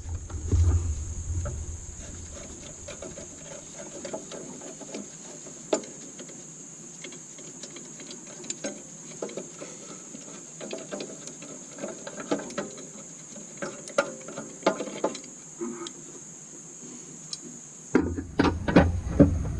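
Scattered light clicks and knocks of hand tools on engine parts, over a faint steady high-pitched whine. Heavier bumping noise comes in near the end.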